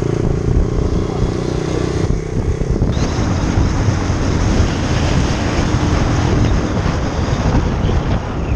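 Motorcycle engine running under heavy wind buffeting on the rider's camera microphone. About three seconds in, the engine's steady tone fades under a dense rush of wind noise.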